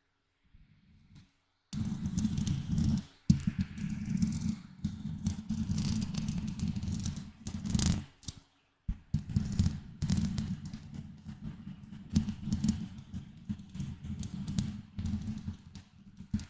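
Close microphone being scratched and rubbed, a dense scratchy rustling with a heavy low rumble from the contact on the mic. It starts after a quiet second or two, breaks off briefly a little past halfway, then carries on.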